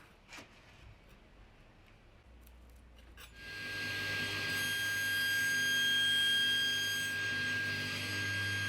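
A few faint clicks, then a little over three seconds in an electric power tool starts and runs with a steady high whine over a low hum.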